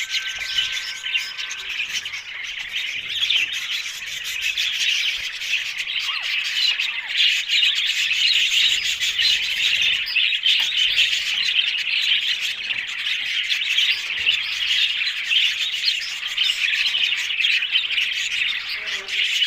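Birds chirping continuously, many quick high chirps overlapping with no break.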